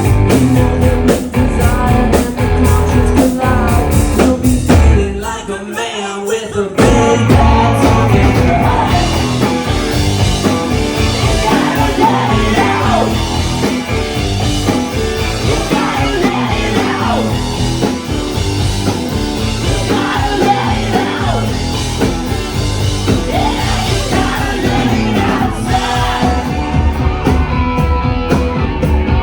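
Live rock band playing, with electric guitars, bass, drums and singing; about five seconds in the bass and drums drop out briefly before the full band comes back in.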